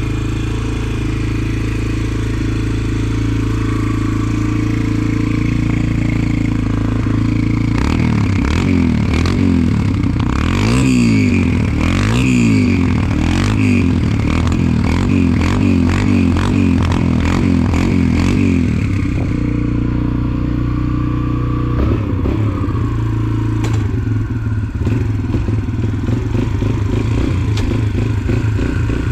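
Dirt bike engine running at a steady note, then from about eight seconds in revving up and down over and over for some ten seconds amid clattering and scraping, before settling back to a steady note.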